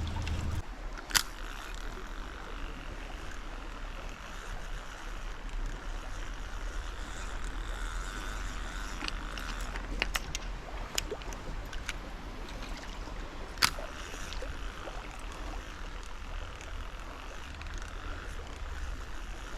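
Mountain stream water running steadily, with a few sharp clicks and taps over it, the loudest about a second in and again about two-thirds of the way through.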